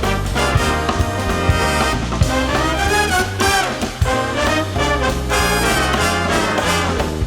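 Live big band playing a swing-style film theme: trumpets and trombones carry the tune over bass and drums.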